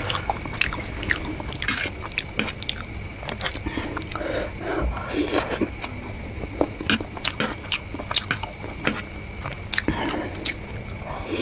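Close-miked chewing of fried egg chow mein noodles, with many short irregular wet mouth clicks and smacks. Now and then a metal fork scrapes and clinks against the plate.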